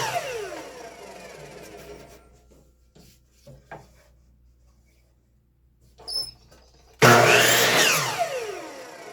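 Power saw cutting wooden fence pickets to length. The blade's falling whine dies away as it spins down after a cut, and a few light knocks of wood being handled follow. About seven seconds in a second loud cut starts, then spins down with the same falling whine.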